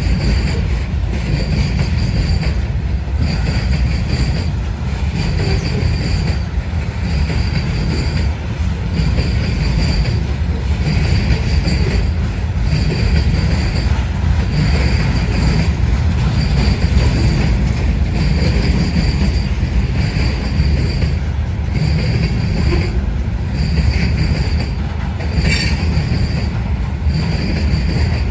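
Herzog ballast train rolling past: a steady, loud rumble of steel wheels on rail, with a high squeal that repeats about once a second. A brief sharp screech comes near the end.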